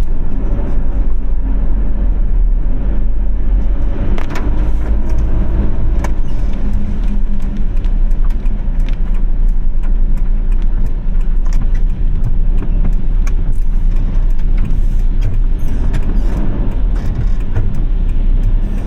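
Car driving on a wet road: a steady, heavy low rumble of road and engine noise with scattered sharp ticks throughout.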